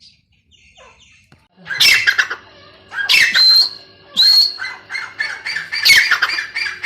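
Gray francolin calling. Loud harsh squawking notes begin about a second and a half in, then break into a quick run of short repeated calls, several a second.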